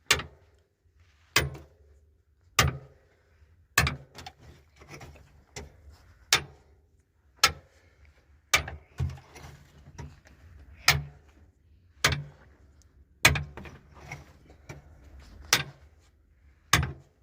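Sharp knocks of something hard being struck, repeating at a steady pace of about one every 1.2 seconds, each with a short ring after it.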